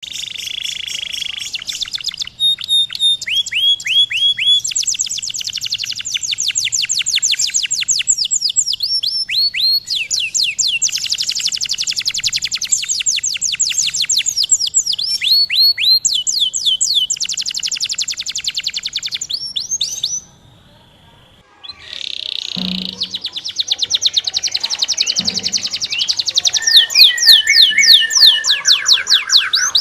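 Domestic canary singing: long trilled phrases of rapidly repeated high notes, the pace and pitch changing from phrase to phrase, with a brief pause about twenty seconds in.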